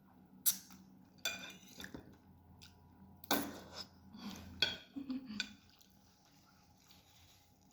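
Cutlery clinking and scraping against a dish while eating noodles: half a dozen sharp clinks and short scrapes, stopping about six seconds in.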